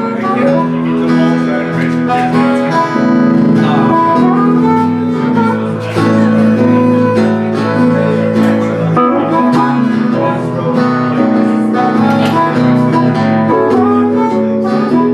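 Live country band playing an instrumental passage without vocals, with guitar to the fore: plucked and strummed guitar over sustained lower notes, at a steady loud level.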